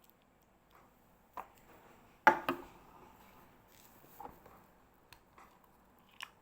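A few light clicks and knocks of a die and a small plastic magic-trick prop being handled, the sharpest knock about two seconds in.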